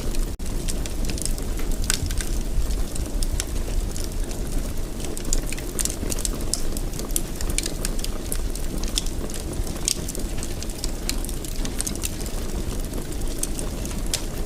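Wood fire burning in a fireplace: a steady low rumble of flames with frequent irregular crackles and pops, and a momentary drop-out about half a second in.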